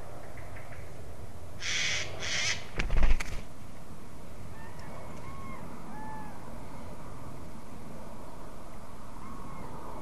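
Two brief rushing sounds, then a cluster of loud knocks close to the microphone about three seconds in. After that come faint distant bird calls: short arched notes, one every second or so.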